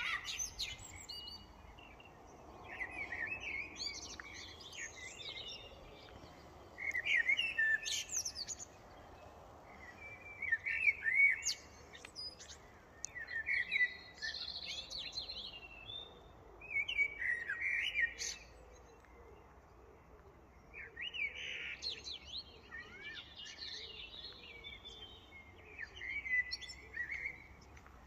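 Songbirds singing in short, quick warbling phrases of high chirps and trills, one phrase after another with brief pauses, over a faint steady background hiss.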